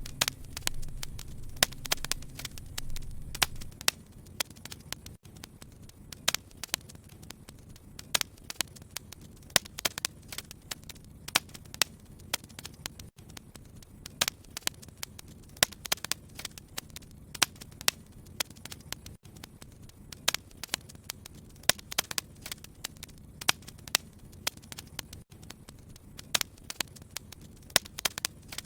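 Wood fire crackling: irregular sharp pops and snaps over a soft hiss, with a low rumble in the first few seconds.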